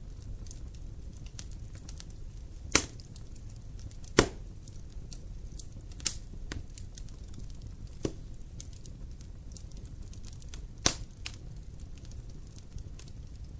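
Wood fire crackling in a fireplace: many faint ticks and five louder pops spread through, over a low steady rumble of the flames.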